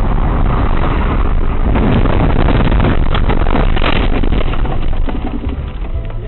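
Vehicle engine and road noise picked up by a dashcam microphone: a loud, steady low rumble with scattered crackles and rattles.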